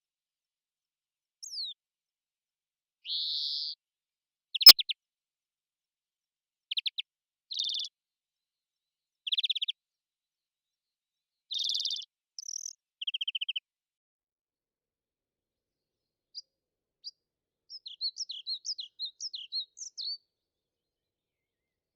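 Songbird calls: short buzzy, trilled phrases with pauses between them, then a quick run of twittering notes near the end. A single sharp click about five seconds in is the loudest sound.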